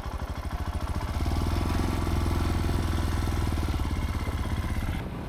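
Royal Enfield Himalayan 411's single-cylinder engine running with an even, pulsing beat. It grows louder about a second in as the revs come up, then eases back near the end.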